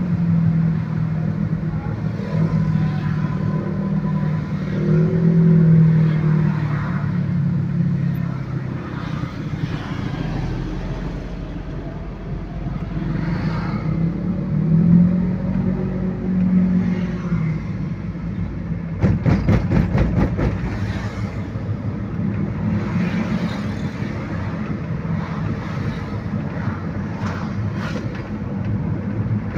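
Motor vehicle engines running on the road, the engine note rising and falling with the revs, with a short spell of sharp crackling about two-thirds of the way through.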